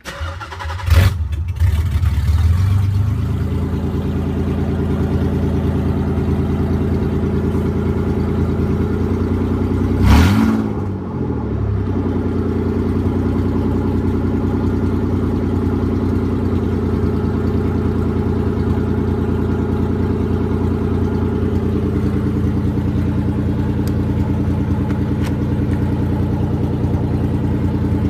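1993 Nissan 300ZX's V6 engine cranking and catching within about a second, then idling steadily, with one brief rev about ten seconds in. It starts now that the car is in neutral, after a no-start that had been traced to the neutral position safety switch.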